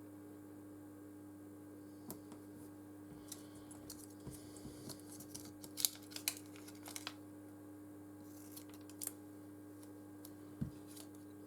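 Scattered small clicks, snips and rustles of adhesive strips being cut and handled during phone reassembly, the loudest click about six seconds in, over a steady low hum.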